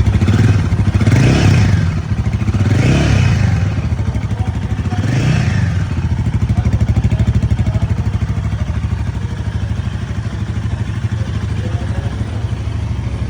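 Royal Enfield Himalayan 450's 452 cc single-cylinder engine blipped three times through its stock exhaust, each rev rising and falling quickly, then settling into a steady idle.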